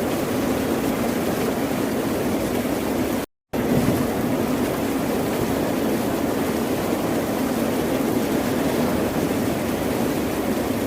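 Ocean surf: a steady wash of breaking waves, which cuts out to silence for a moment a little over three seconds in.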